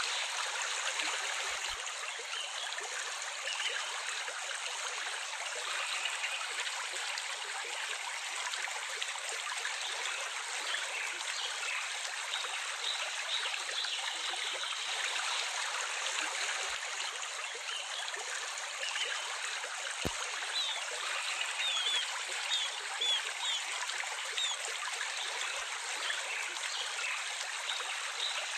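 Running water flowing steadily, like a small stream, with a few faint bird chirps over it in the second half.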